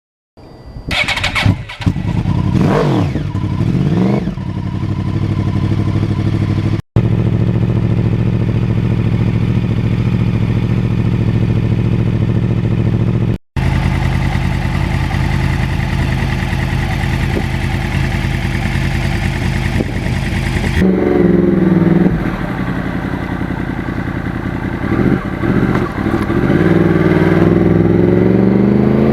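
2009 Yamaha R1's crossplane inline-four engine breathing through custom-made mufflers. It starts up with a few quick revs, then idles steadily. About twenty seconds in it revs up and down, and near the end it climbs in pitch as it pulls away.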